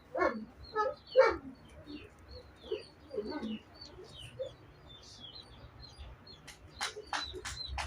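Small birds chirping repeatedly throughout. In the first few seconds a dog gives short yips and whines, and near the end there are a few sharp clicks.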